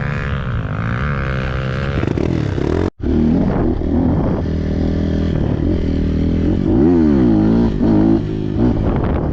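Trail motorcycle engines running and revving, pitch rising and falling, with one clear rev up and back down about seven seconds in. The sound drops out for an instant just before three seconds.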